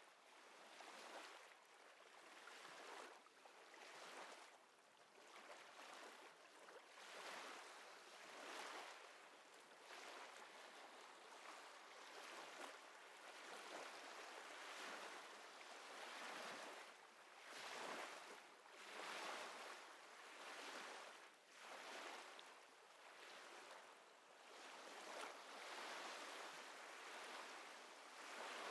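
Faint small waves lapping at the water's edge: a soft hiss that swells and fades every second or two.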